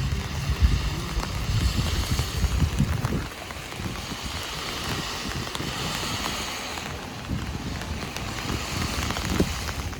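Heavy rain pattering on an umbrella, with the hiss of traffic tyres on the wet street swelling and fading. Gusty low rumble of wind on the microphone for the first three seconds.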